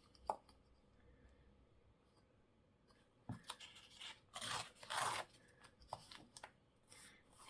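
Paper scraps being handled: a light click, then after a quiet spell a cluster of short, scratchy paper sounds about three to five seconds in, followed by a few faint clicks.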